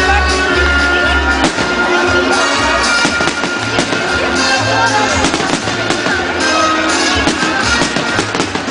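Fireworks salute: repeated bangs and crackles of bursting shells, over loud music.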